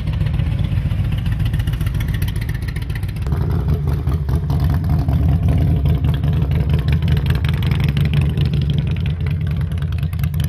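Motorcycle engine running close by with a rapid, even pulse, growing louder about three seconds in.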